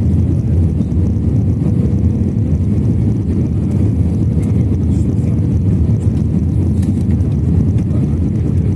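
Airbus A321 jet noise: a steady low roar that stays level throughout, with a faint steady tone above it.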